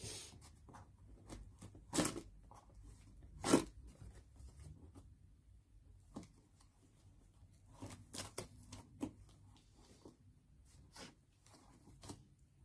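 Shipping packaging being opened by hand: an irregular run of crinkling, tearing and handling noises, with two louder sharp sounds about two and three and a half seconds in.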